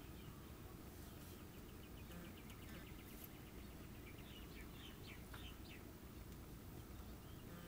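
Faint background bird calls: a quick trill of ticks about two seconds in, then a few short chirps, over a low steady hum.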